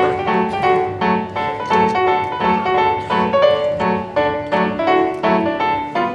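Piano music: a bouncy, lively tune with a steady bass note on each beat, played for dancing.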